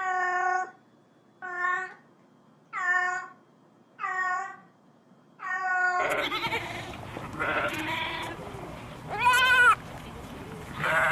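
A short pitched animal call repeated five times, about once every one and a half seconds. About six seconds in, a different recording of bleating animals starts, with background noise and a loud, wavering bleat near the end.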